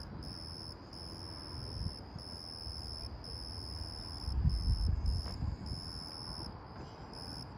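Night insects trilling in a high-pitched chorus that cuts on and off in regular phrases, over a low rumble that swells briefly about two-thirds of the way through.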